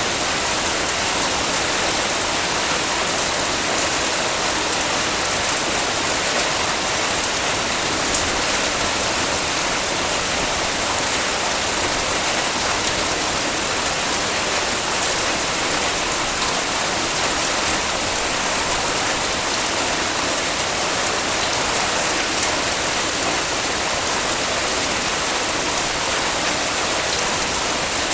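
Heavy rain falling in a steady, dense hiss, with no let-up and no distinct drips standing out.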